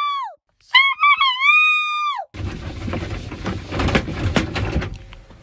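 Two long, high-pitched screams, the second wavering and then dropping in pitch. A loud, noisy rumble with crackling follows for about two and a half seconds and fades out near the end.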